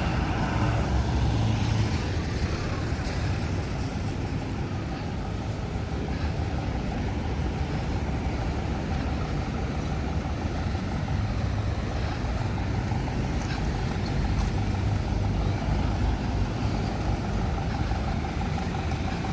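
Steady rumble of motor vehicle engines and road traffic, with no sudden events.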